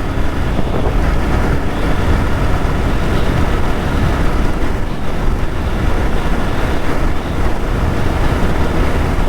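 Motorcycle riding at steady speed: wind rushing over the microphone over a low engine and road rumble, with no distinct events.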